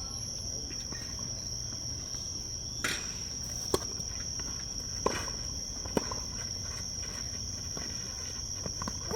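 Steady high-pitched insect chorus buzzing throughout. A few sharp hits of a tennis ball on rackets come between about three and six seconds in.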